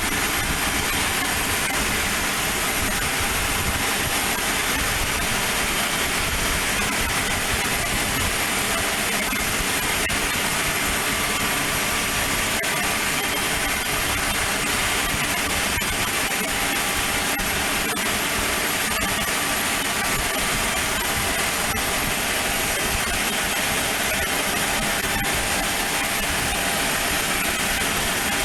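Aircraft engine running at an even, unchanging level, with a few faint steady high tones over a low rumble.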